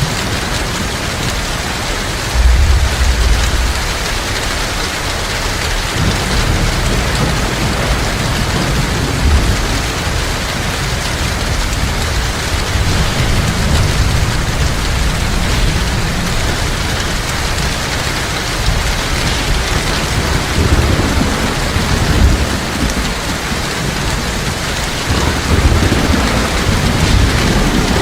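Heavy rain falling steadily, with low thunder rumbling in several times, the strongest roll about two and a half seconds in and more near the end.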